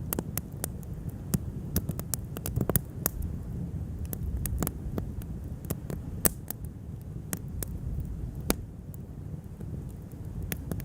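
Wood campfire burning: irregular sharp crackles and pops over a low, steady rumble.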